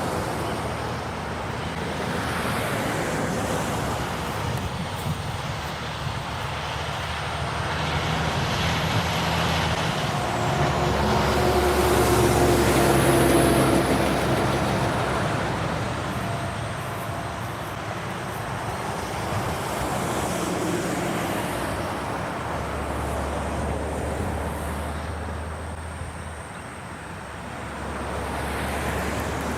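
Diesel train engine running as the train passes, its low engine drone shifting in steps and loudest about halfway through.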